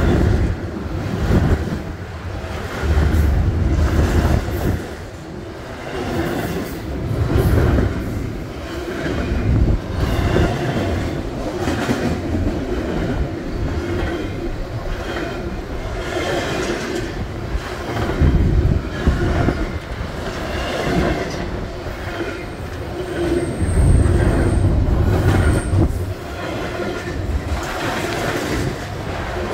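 CSX double-stack container train rolling past below: a continuous rumble of steel wheels on rail that swells and fades, with irregular clanks and rattles from the passing cars. A brief high-pitched squeal comes about 23 seconds in.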